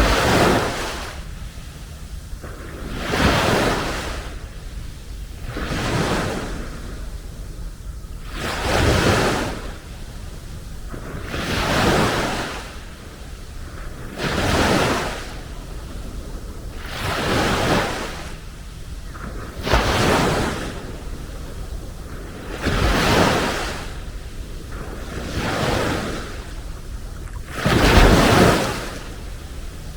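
Sea waves washing onto the beach, each wash of surf swelling and fading away about every three seconds.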